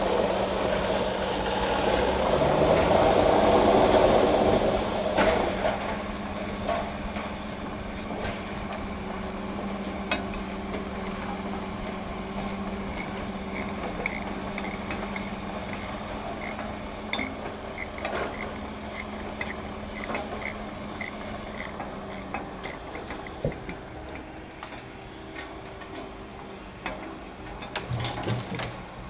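An engine running steadily, with rattles and knocks. It is loud for the first five seconds or so, then drops to a quieter run full of small clanks, and the steady hum fades out near the end.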